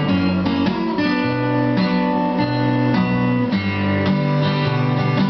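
Acoustic guitar playing chords in an instrumental passage of a song, with no voice.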